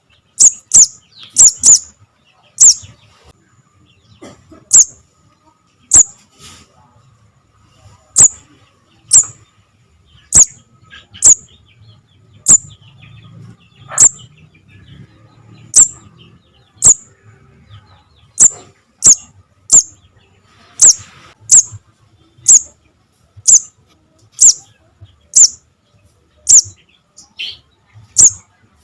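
Young sogon (little spiderhunter) calling: short, sharp, very high chips repeated at roughly one a second, sometimes two in quick succession.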